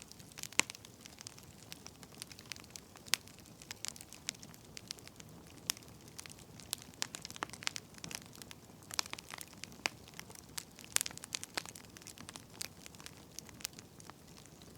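Burning firewood crackling: irregular sharp pops and snaps, a few each second, over a soft steady hiss.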